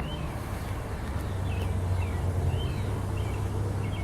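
Small birds chirping now and then in short, quick calls, over a steady low rumble.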